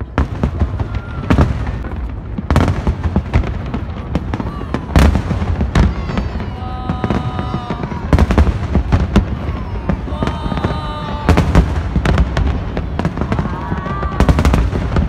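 Aerial firework shells bursting in quick succession over a steady low rumble, with dozens of sharp bangs and crackles, some much louder than the rest. Spectators' voices can be heard in short snatches now and then.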